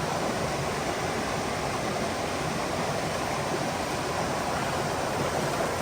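Steady, even rushing of a mountain stream's water flowing over rocks.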